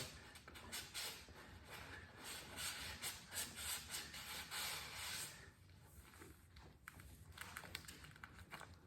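Cloth rubbing and wiping oil off the motorcycle in a run of irregular scrubbing strokes for about five seconds, then faint scattered clicks of handling.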